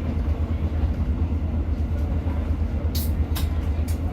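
Steady low rumble inside a Class 150 diesel multiple unit running along the line, its underfloor diesel engine and wheels on the track. Three short sharp clicks come near the end.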